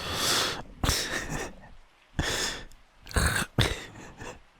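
A man with a blocked, phlegmy nose sniffing and snorting to clear it: four short noisy bursts about a second apart.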